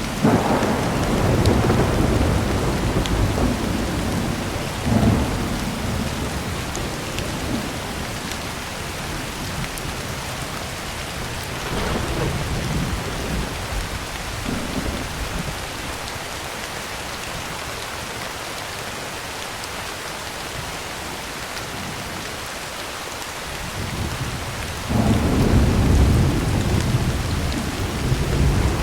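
Heavy rain falling steadily on a tin roof, with rolls of thunder: a loud rumble at the start, smaller ones around a third of the way in, and another loud rumble near the end.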